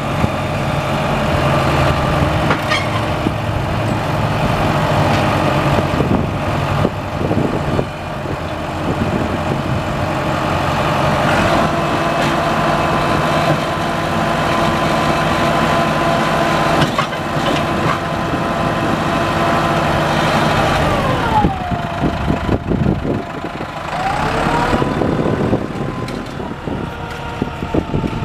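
Diesel engine of a 2001 New Holland TS100 tractor running steadily. About 21 seconds in, a whine drops in pitch, and a few seconds later it climbs back up.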